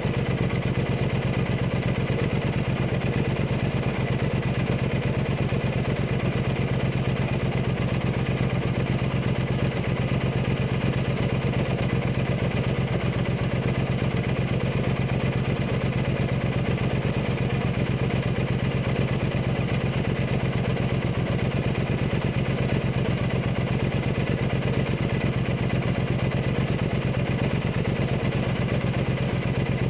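Triumph Bonneville T120's 1200 cc parallel-twin engine running steadily through aftermarket Zard exhausts, a low, even exhaust note with no revving.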